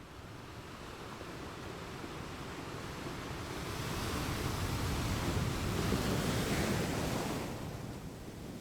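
Ocean waves washing onto a shore. One surge of surf swells up about three seconds in, holds, then drains away near the end.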